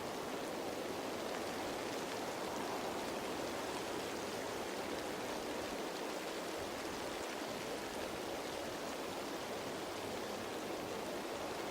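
Steady rain falling on leaves: an even wash of raindrops at one level, with no single drop standing out.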